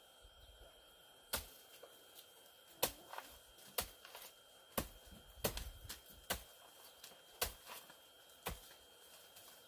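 A series of sharp, short knocks, about eight of them at uneven intervals of roughly a second, over a faint steady background.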